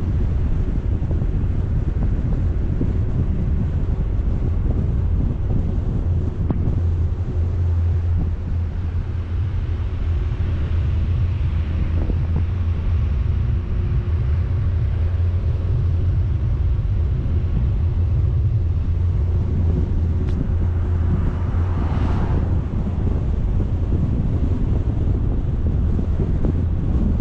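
Wind buffeting a camera microphone on a moving vehicle: a steady low rumble, with a brief brighter swell about two thirds of the way through.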